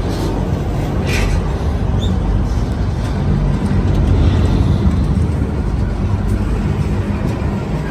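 Freight train rolling past with a steady, heavy low rumble. A brief higher squeak sounds about a second in.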